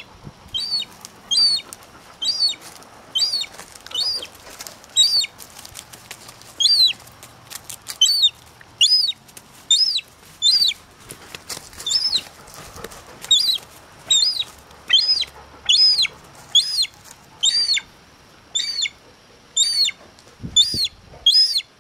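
Young gull chick giving a long series of high, thin peeping calls, each rising then falling in pitch, about one every two-thirds of a second, with brief pauses around a third of the way in and near the end.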